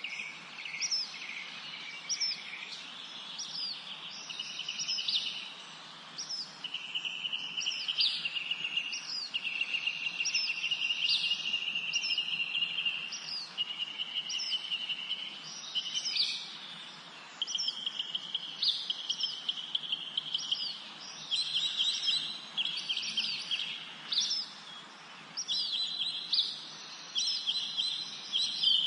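Songbirds singing in a spring forest: short high hooked notes repeating about once a second, over long, fast trills that come and go every few seconds.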